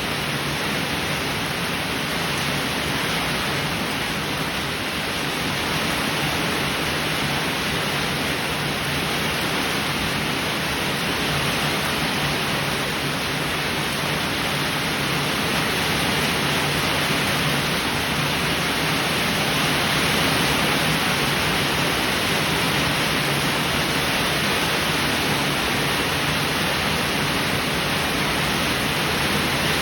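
Steady heavy rain, an even hiss with no thunder claps.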